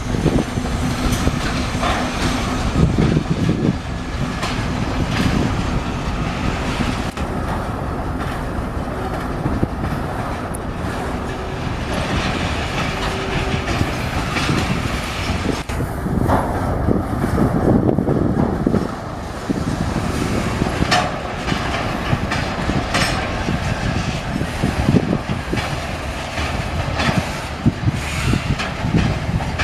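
ChME3 diesel-electric shunting locomotive running past on the track, its diesel engine running steadily under the clickety-clack of wheels over rail joints.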